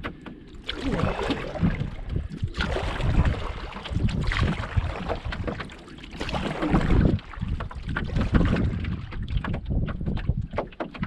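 Strong gusting wind blowing across the microphone, with water splashing around a canoe.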